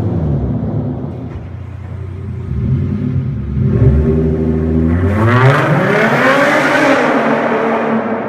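2013 Hyundai Genesis 3.8-litre V6 running through a muffler-delete exhaust: stock cats and headers, with a straight pipe welded in where the muffler was. The engine holds low for a few seconds, then revs up about halfway through, getting louder at the top, and comes back down near the end.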